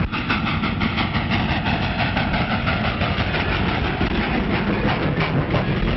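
A vehicle engine running with a rapid, steady chugging beat.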